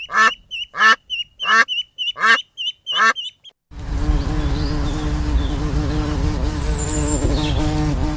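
Duck quacking in a steady run, about three calls every two seconds, stopping a little over three seconds in. It is followed abruptly by a loud, steady insect-like buzz with a held low tone that lasts to the end.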